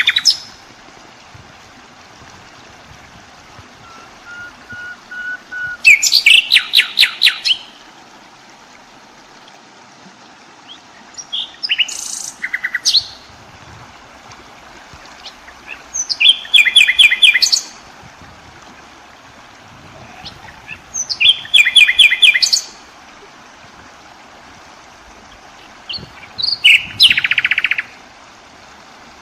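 A songbird singing short loud phrases of rapid repeated notes, five phrases about five seconds apart, with a faint steady hiss between them.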